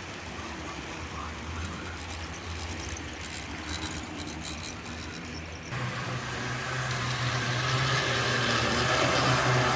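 HO-scale model train running on the layout, with a steady motor hum and wheel noise on the track. About halfway through the sound switches abruptly to a louder, steadier hum that swells toward the end.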